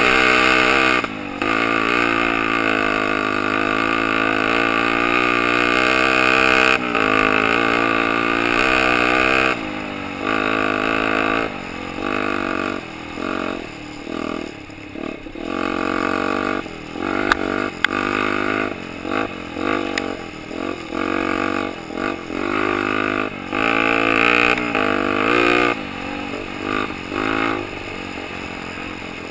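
Honda XL 125 R's air-cooled single-cylinder four-stroke engine pulling the bike along a trail: held at fairly steady revs for the first ten seconds or so, then revved and eased off over and over in short bursts of throttle. Two sharp clicks come in the middle.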